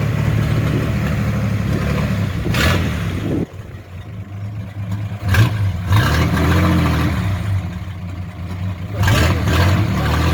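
Car engine idling. About three and a half seconds in it drops away suddenly, then it returns with a brief rise and fall in engine speed around the middle and settles back to a steady idle.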